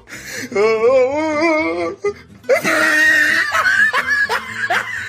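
People laughing over background music, with a run of short falling laugh syllables near the end.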